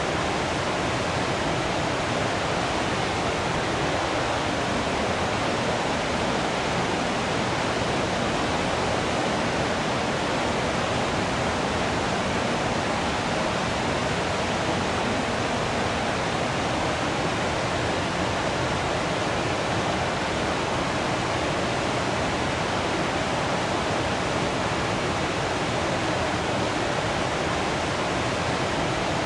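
Waterfall water rushing in a steady, unbroken roar of noise.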